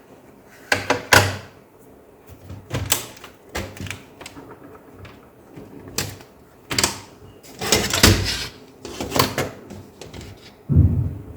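Laptop parts being handled on a work surface: a series of irregular clicks, taps and knocks of plastic and metal, with a heavier thump near the end.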